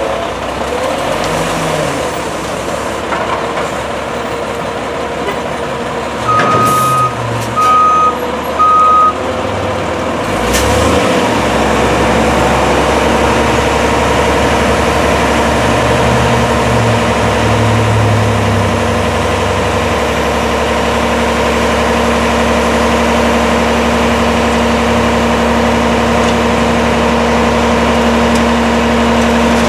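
Diesel engine of a Volvo WXLL garbage truck running, with a back-up alarm beeping three times about six to nine seconds in. The engine then settles into a steady run.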